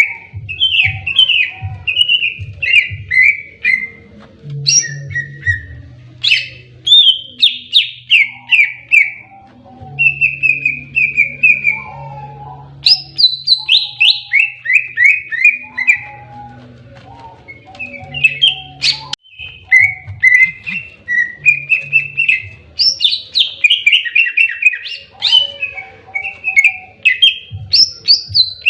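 A cucak ijo (green leafbird) singing in aggressive 'fighting' mode: loud, fast runs of rapid chirps that drop in pitch, repeated over and over with short pauses. A faint low hum lies underneath at times.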